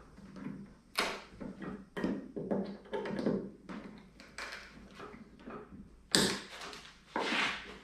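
Irregular taps, knocks and clunks of wooden cabinet parts and tools being handled, with a sharp knock about a second in and another about six seconds in, and a brief scraping sound near the end.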